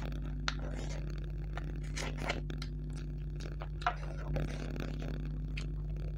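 Close-miked eating sounds: wet chewing, sucking and lip smacks as mutton-foot meat is pulled off the fingers and chewed, in short separate clicks over a steady low hum.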